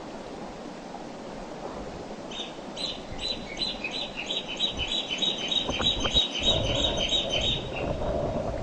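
River water flowing steadily, with a bird singing a fast series of repeated high chirps from about two seconds in until near the end. In the second half a low rumbling with scattered knocks grows louder.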